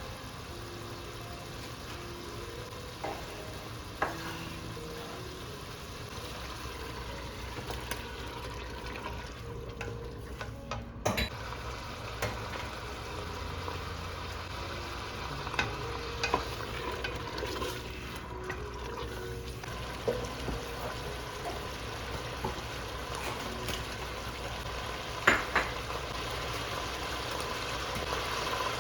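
Food frying and sizzling steadily in a pan while it is stirred, with the occasional sharp click of a utensil against the pan.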